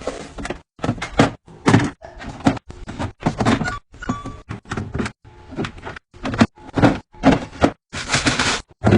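A run of short clunks and knocks, about one or two a second, as containers and bottles are set down and moved on fridge shelves during restocking, with a longer rustling or scraping stretch near the end.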